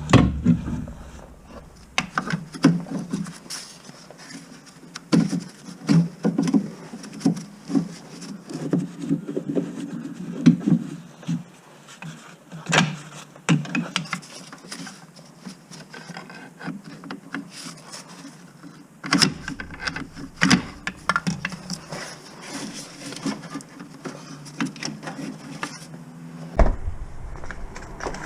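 Hand work with tools and parts: irregular clicks, knocks and scrapes, several sharper knocks standing out around 13 and 19 seconds in.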